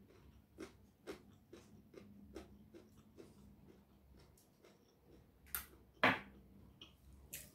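Faint close-miked chewing with a string of soft wet mouth clicks, and two louder lip smacks about five and a half and six seconds in.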